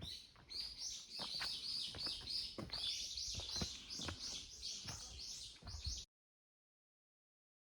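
A bird singing a long run of quick repeated high notes, about three a second, over soft footsteps on a trail. It cuts off suddenly about six seconds in.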